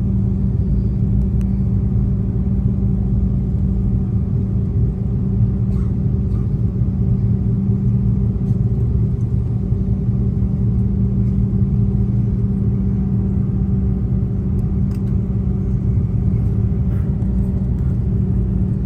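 Steady drone of an Airbus A330's engines and air systems heard inside the passenger cabin: a constant low hum with no change in pitch.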